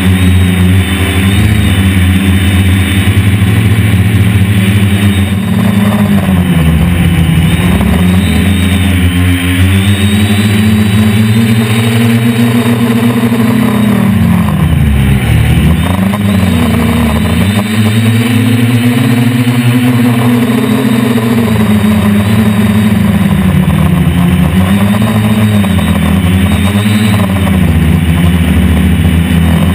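DJI Flame Wheel F450 quadcopter's motors and propellers whirring, the pitch swooping up and down as the throttle changes, with a deep drop and recovery about fifteen seconds in.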